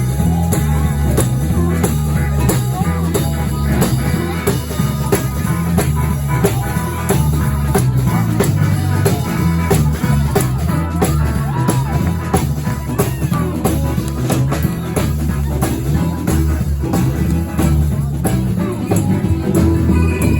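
A live blues band playing, with a steady drum beat under bass and guitar.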